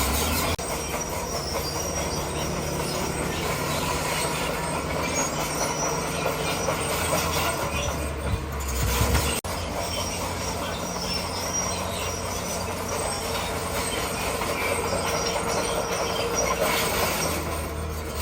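Crawler bulldozer engine running steadily under load, with the metallic noise of its steel tracks as it pushes stone. The sound breaks off sharply for an instant about nine seconds in, then carries on.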